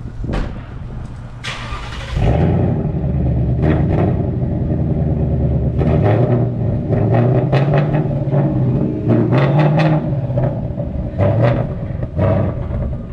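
Ford Mustang V8 engine coming in loud about two seconds in and revved up and down several times.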